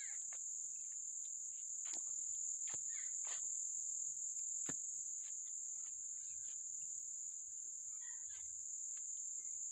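Crickets chirping in a steady high-pitched chorus, with scattered light clicks and knocks over it.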